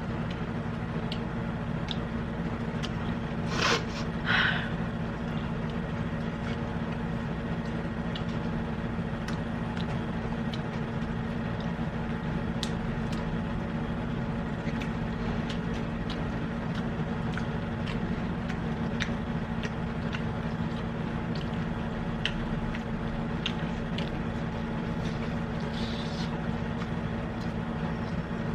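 Quiet eating sounds, faint chewing and small clicks of utensils and food, over a steady machine hum. Two louder short noises come about four seconds in.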